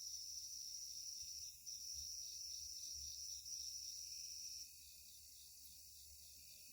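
Night insects calling: a high, steady trill that runs in three stretches of about a second and a half with short breaks and stops a little before the end, over a fainter steady high chorus.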